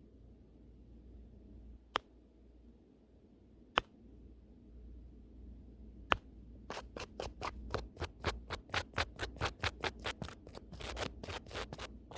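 Brush bristles swept over the camera's microphone: a few single strokes about two seconds apart, then quick back-and-forth brushing at about five strokes a second from about halfway in.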